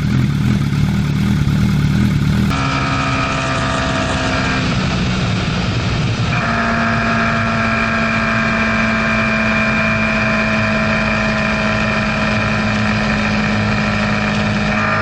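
Superbike engine running at steady revs, its pitch holding level and shifting to a new steady pitch twice, about two and a half and six seconds in.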